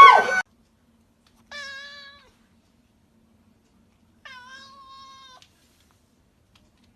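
A cat meowing twice, two short, even-pitched calls a few seconds apart, the second a little longer than the first.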